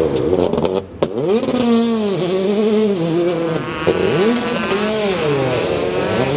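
Rally car engine revving hard, its pitch swinging down and up several times as the revs fall and climb. About a second in, the engine note drops out briefly, with a few sharp cracks.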